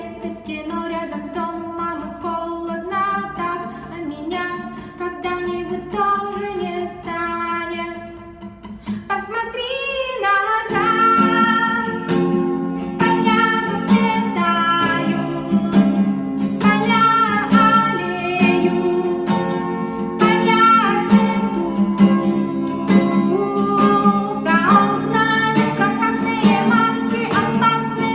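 A song: a woman singing a melody, lightly accompanied at first. About ten seconds in, a fuller strummed acoustic guitar accompaniment comes in under the voice.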